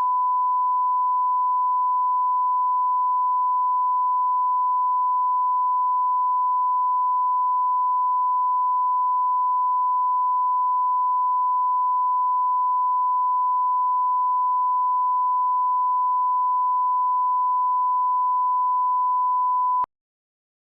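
A steady pure reference tone at one unchanging pitch and level, a line-up test tone of the kind laid at the head of a film master. It cuts off abruptly near the end.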